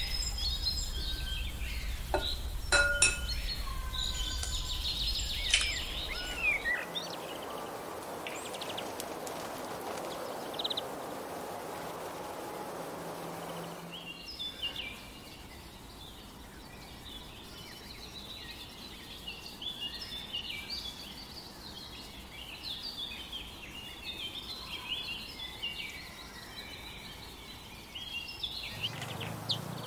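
Eggshells clinking against the rim of a glass bowl as eggs are cracked, a few sharp ringing taps in the first few seconds. Then, from about halfway through, many short high bird chirps in the background.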